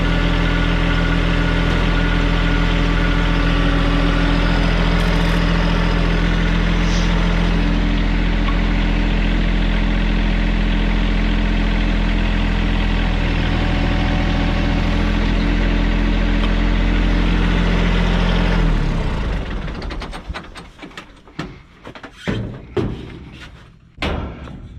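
A piece of equipment's engine idling steadily, then shut off about three-quarters of the way through, its sound dying away over a second or so. A few scattered knocks and clicks follow.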